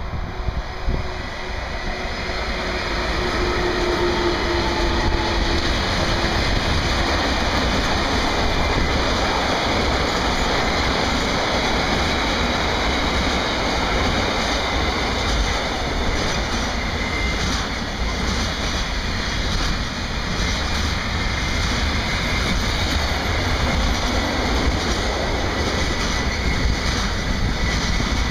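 Long intermodal freight train rolling past behind an electric locomotive: a steady noise of wagon wheels running on the rails. It grows louder over the first four seconds, then holds level.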